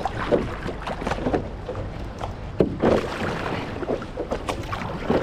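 Paddle strokes and water splashing against a stand-up paddleboard, in irregular short splashes over a steady wash of water and wind.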